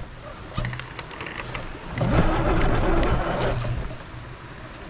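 RC crawler truck driving over the wet trail: a steady low running noise with scattered clicks. A louder rush of noise comes in about two seconds in and lasts under two seconds.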